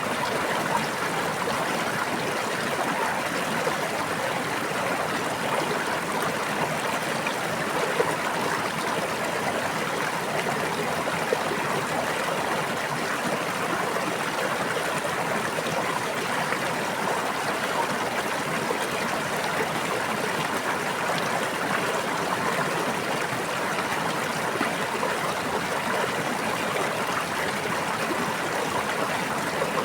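A brook's water flowing and babbling steadily, with no let-up.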